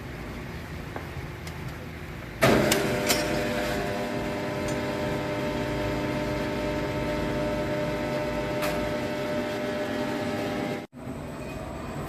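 Large sawmill machinery running with a steady, many-toned hum. About two and a half seconds in, a loud clatter sounds, and the machine's tone grows louder and holds steady. The sound breaks off for an instant near the end.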